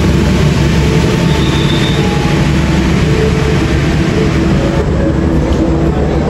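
Passenger train of KA Jaka Tingkir rolling through the station, a loud, steady low rumble of the moving carriages.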